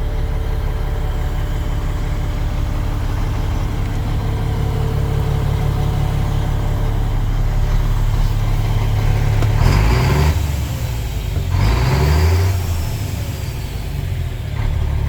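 Renault Magnum 440 truck's diesel engine running at idle, revved briefly twice, about ten and twelve seconds in, before settling back to idle.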